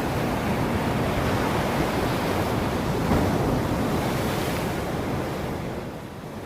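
Ocean waves surging and washing on a shore. One wave swells to its loudest about halfway through, then the wash recedes and dies down near the end.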